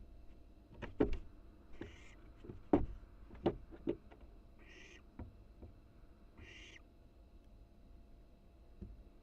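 Barn owl nestling giving three short, rasping hissing calls, the begging 'snore' of owlets, about a second and a half apart. In the first four seconds, knocks and thumps of the owlet moving and flapping about in the nest box.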